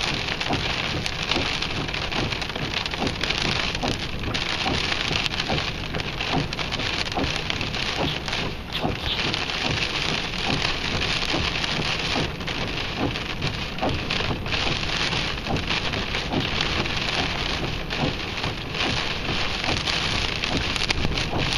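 Wind-driven storm rain pelting a surface steadily: countless sharp drop hits over a constant rushing storm noise.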